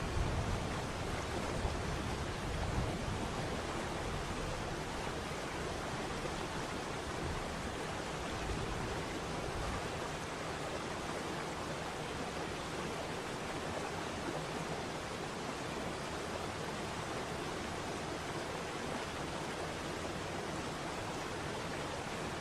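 Waterfall: a steady, even rush of falling water, with a deeper low rumble that eases off about ten seconds in.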